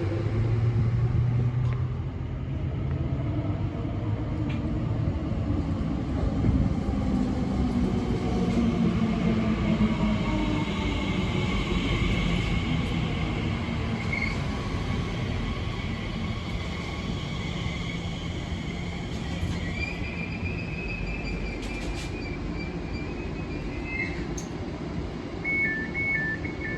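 Elizabeth line Class 345 electric train rumbling along the platform, its motor whine falling in pitch in the first ten seconds as it slows. About a second before the end, a rapid two-tone warning beep starts.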